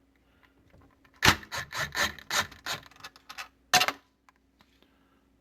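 Hand nut driver turning out a screw on a garbage disposal's discharge pipe elbow: about seven rasping, scraping turns over two seconds, then one sharp click.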